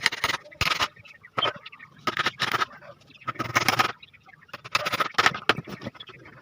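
A series of short, irregular scraping strokes, about eight in all with uneven gaps between them.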